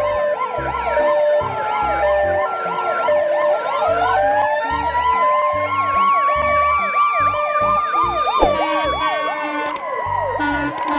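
Layered ambulance sirens: a fast up-and-down yelp and a two-tone hi-lo run throughout, and a wail rises from about four seconds in, holds, then falls away after about eight and a half seconds.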